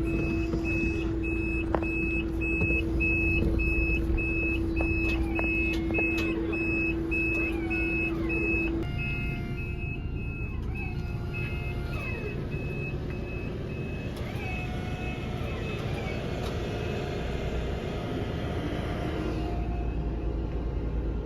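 Truck's reversing alarm beeping about twice a second over a steady engine rumble; the beeps grow fainter about halfway through and stop about three-quarters of the way in.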